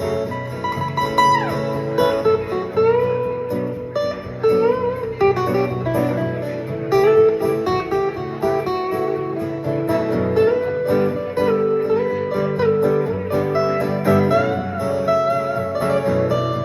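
Guitar-led rock music: a lead guitar plays notes that bend and slide over sustained chords and a steady backing.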